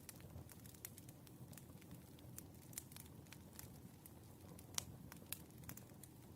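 Faint crackling of a wood fire: irregular small pops and snaps over a soft low rumble, with one louder pop about five seconds in.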